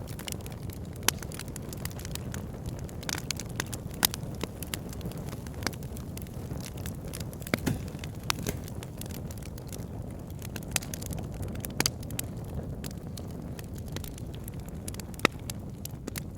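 Wood logs burning in a fireplace: a steady low rumble of flame with scattered sharp crackles and pops, and a louder snap every few seconds.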